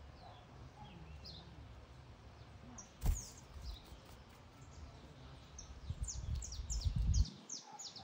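Small birds chirping: short, high notes that slide downward, a few scattered at first, then a quick run of them in the second half. A sharp click about three seconds in, and a low rumble underneath that stops shortly before the end.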